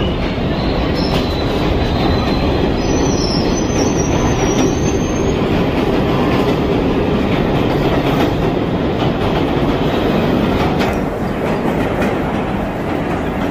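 A New York City subway train running on the rails with a steady, loud rumble. A high wheel squeal comes in about a second in and fades a few seconds later.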